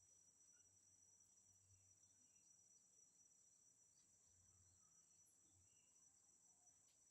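Near silence, with the faint steady high-pitched drone of crickets and a few faint short chirps scattered through it.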